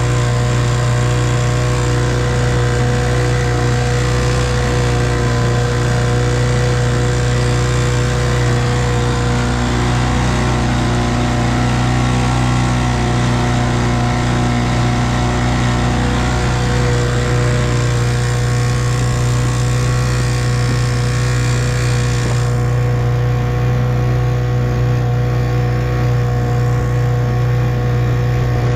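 1958 Evinrude 3 hp two-stroke outboard motor running steadily at a constant speed while pushing a small boat; about two-thirds of the way through, the high hiss drops away while the motor's note holds.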